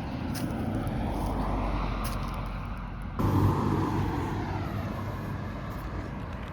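Road traffic noise: the steady rushing of passing vehicles, swelling and fading, with a sudden jump louder about three seconds in.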